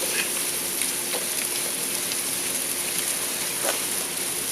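Pork belly and kimchi sizzling steadily on a hot cast-iron cauldron lid, with a few small pops of spitting fat.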